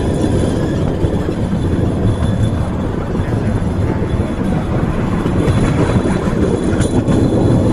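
Cambodian bamboo train (norry) running along the rails: a steady, loud rumble from its small engine and the wheels on the track.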